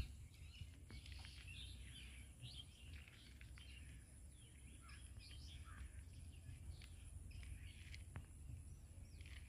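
Faint chirping of small birds: many short chirps, thinning out near the end, over a low steady rumble.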